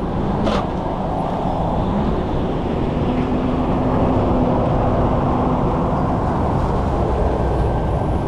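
Vehicle driving on the road: a steady rumble of engine and tyre noise, with a faint steady hum joining in for a few seconds midway.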